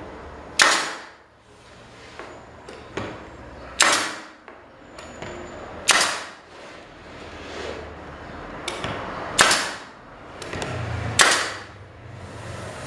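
Sharp, loud strikes on wood or MDF in a workshop: five hard hits a second or two apart, each with a short ring, and a few lighter taps between them.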